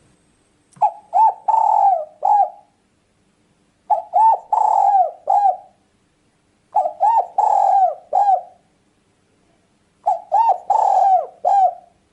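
Spotted dove (tekukur) cooing: four call phrases about three seconds apart, each a quick run of short coos with one longer drawn-out coo.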